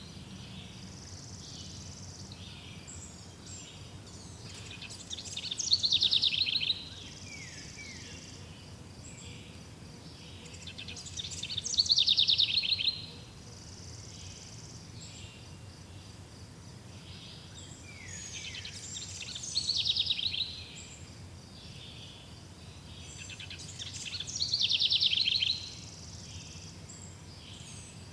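A songbird repeating the same song phrase about every six seconds, each a rapid trill that falls in pitch and lasts a second or two, over quieter chirps from other birds and a steady faint hiss.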